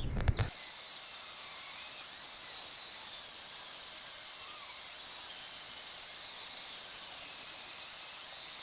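Steady, even hiss with no low end, after a brief sound in the first half second.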